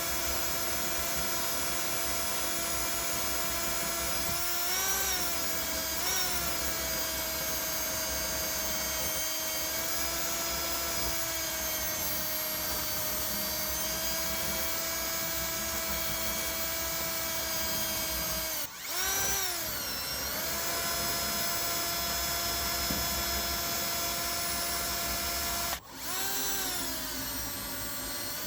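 Drill spinning a soft wire wheel against the rusty metal of an antique ice claw, brushing off rust left after electrolysis. The motor gives a steady whine with slight wavers as the load changes. Twice, at about 19 and 26 seconds, it slows sharply and then winds back up to speed.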